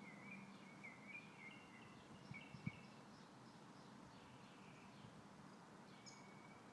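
Faint bird chirping: a quick run of short, high chirps in the first half, with a few more scattered later, over a faint steady outdoor hiss. There is a brief soft knock a little before the middle.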